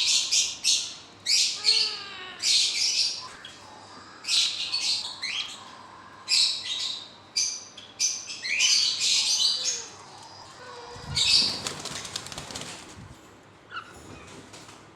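Pet parrots squawking in a run of short, harsh, shrill calls, followed about eleven seconds in by a burst of wing flapping.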